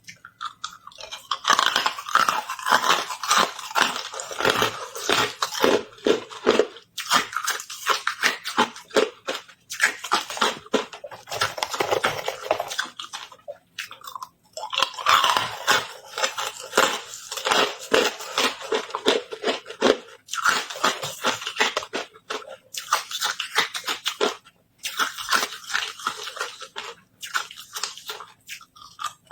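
A person biting and chewing carbonated hard ice close to the microphone: a dense run of crunching, broken by brief pauses every several seconds.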